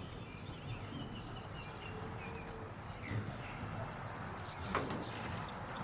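Outdoor ambience: small birds chirping in short high notes over a steady low rumble, with one sharp click about three quarters of the way through.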